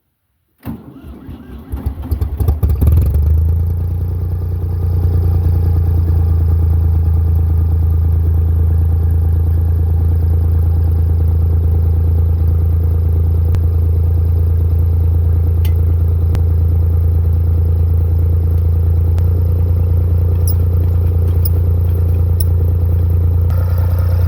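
Tractor engine starting about a second in, briefly louder as it catches, then running steadily at a constant speed with a deep, even hum.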